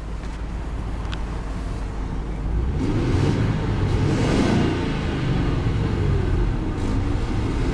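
1995 Ford Thunderbird's 4.6-litre V8 idling, then revved from about three seconds in, the engine speed rising and falling twice. A buzz comes with the revs, which the owner takes for the fan blade buzzing against something.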